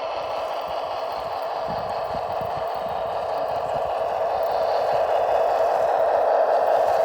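Simulated Tatra 928 V8 diesel engine sound from the RC Tatra 138 model's sound unit, running steadily and growing gradually louder.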